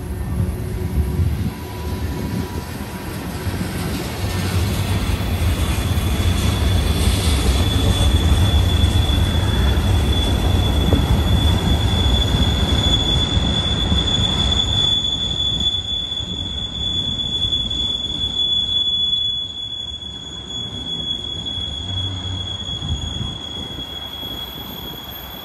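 Union Pacific manifest freight train rolling past: the cars' wheels rumble steadily on the rails, and a steady high-pitched wheel squeal comes in about five seconds in and keeps on. The rumble eases somewhat about three-quarters of the way through.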